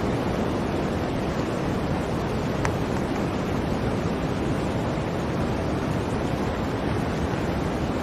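Blizzard wind blowing in a steady, even rush, heaviest in the low range, with no gusts or breaks.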